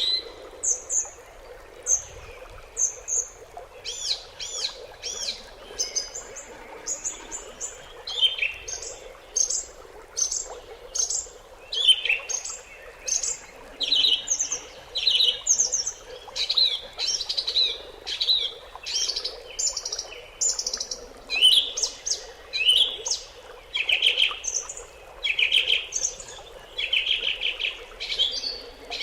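Several small birds chirping in quick, short, high-pitched calls that overlap almost without pause.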